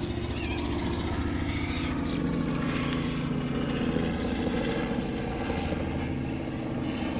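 Many Tetragonula hockingsi stingless native bees buzzing together in a steady drone, disturbed by the opened hive.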